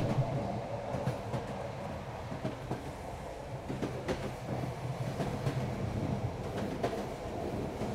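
Train running along the track, heard from inside the carriage: a steady low rumble with a few scattered clicks.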